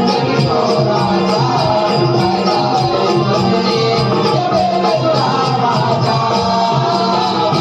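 Konkani naman folk music: singing over steady rhythmic percussion, with sustained melody lines.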